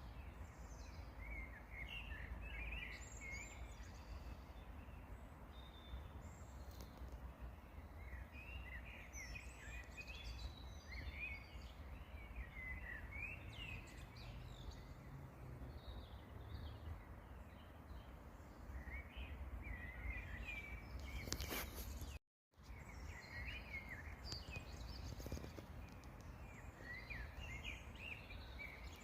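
Songbirds chirping and twittering in short scattered phrases over a steady low rumble, with a brief dropout to silence about two-thirds of the way in.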